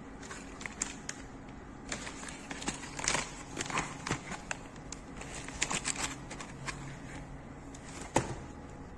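Scattered small clicks and crackly rustling from handling, busiest in the middle, with one sharper click about 8 seconds in, over a steady low hum.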